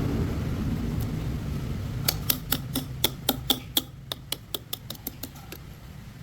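A quick run of sharp metallic clicks, about four or five a second, that fades out over about three seconds, over a low rumble that dies down.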